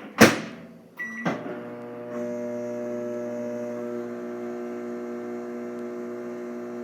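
Microwave oven door shut with a sharp thump, a short keypad beep about a second in, then the microwave starts running with a steady hum and fan noise.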